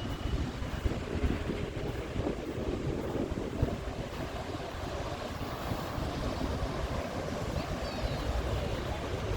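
Wind buffeting the microphone: an irregular low rumble over a steady hiss.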